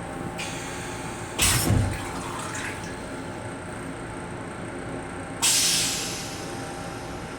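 Railcar toilet flushing: a hiss, then a short loud whoosh about a second and a half in, and a second burst of hiss near the end that fades away. A steady train noise runs underneath.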